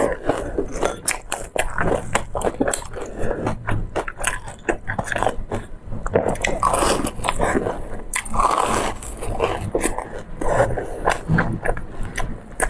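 Close-up biting and chewing of a fried dough pastry dipped in a thick white dip, with many small, irregular crunching clicks.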